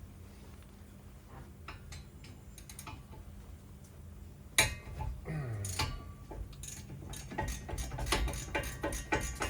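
Hand tools working on brake hardware: a few light clicks, one sharp metal clank about halfway through, then a quick run of light metallic clicks, about four or five a second, near the end.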